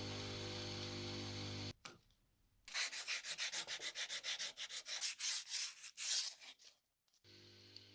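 Rapid back-and-forth rubbing strokes, about six a second for some four seconds, as a component is sanded or scrubbed by hand during cleaning. A small electric motor hums steadily before the strokes and cuts off suddenly; it returns faintly near the end.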